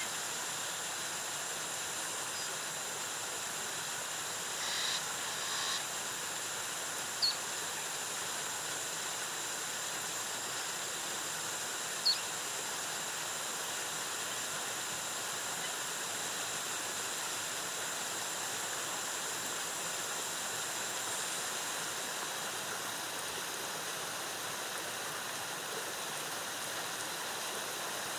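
Steady rushing of a waterfall with a thin, constant high-pitched tone running over it. A few brief high chirps stand out: a pair around five to six seconds in, then single ones at about seven and twelve seconds.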